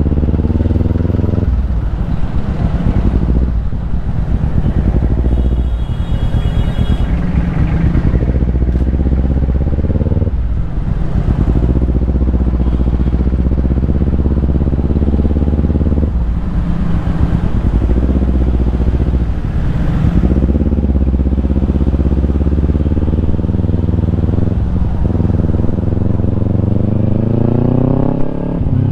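Kawasaki Ninja 250's parallel-twin engine running through a Yoshimura aftermarket exhaust while riding. The revs climb and then fall off several times as it shifts through the gears, with a few steadier cruising stretches in between.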